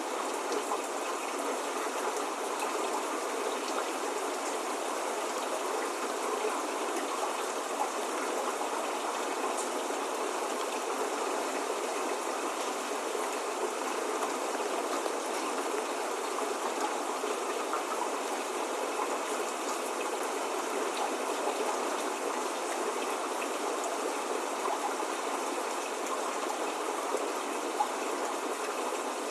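Steady spring rain falling: an even, unbroken hiss with no thunder and no birdsong.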